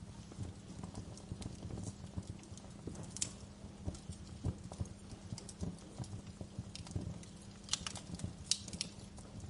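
Wood fire burning in a fireplace, crackling with irregular snaps and pops over a low rumble of the flames; a few sharper pops come about three seconds in and in a cluster near the end.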